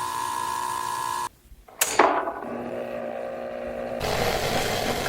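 Coffee machine running with a steady hum that cuts off abruptly about a second in; after a short pause there is a sharp click, then the machine hums again, and near the end the sound switches to a steady hissing as it keeps brewing.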